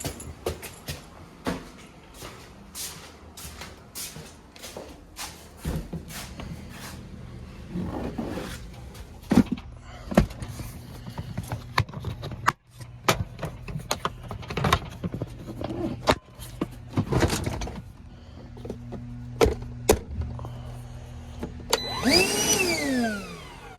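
Knocks, clicks and clatter of things being handled and moved, over a steady low hum. Near the end a squeak rises briefly, then falls in pitch over about a second and a half.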